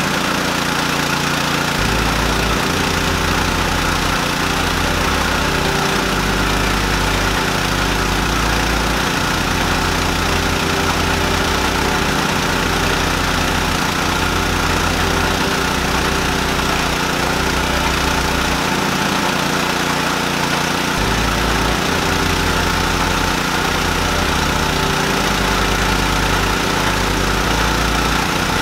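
Petrol engine running steadily, driving a Mahkota KD-580S rice milling machine.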